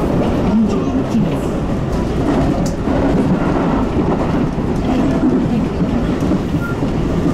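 Tobu 10030-series electric commuter train running along the line, a steady rumble of wheels and running gear heard from inside the front car.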